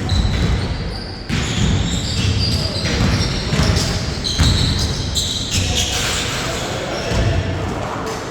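Basketball bouncing on a hard court floor, dribbled again and again, with short high squeaks in between that fit sneakers on the court.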